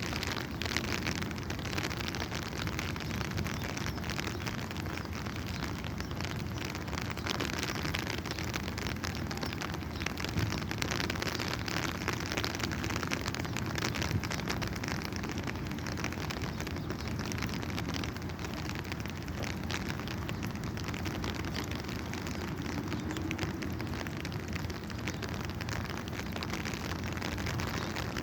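Steady rain falling, an even hiss dense with the ticks of individual drops striking a surface.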